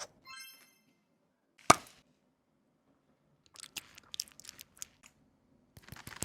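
Makeup packaging and products being handled: one sharp tap or click a little under two seconds in, then, after a pause, a run of small clicks and rustles.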